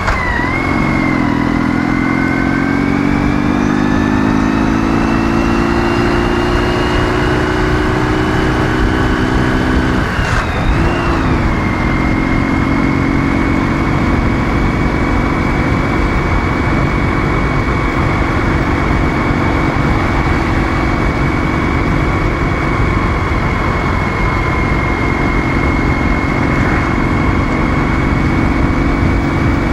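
Ural motorcycle's 650 cc flat-twin engine pulling steadily higher in one gear, changing up about ten seconds in, then holding a steady cruise under a constant rush of noise.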